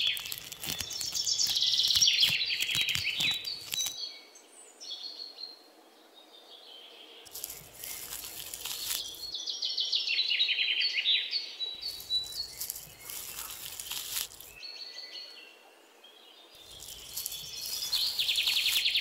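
Small birds singing in rapid chirping trills, several phrases a few seconds apart. Between them come bursts of crisp rustling as bundles of cut green stalks are handled and laid down.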